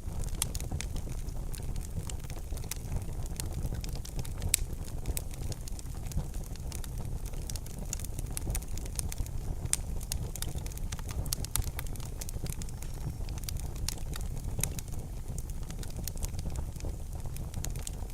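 Wood fire in a fireplace crackling, with frequent sharp pops and snaps over a low steady rumble; one louder pop about four and a half seconds in.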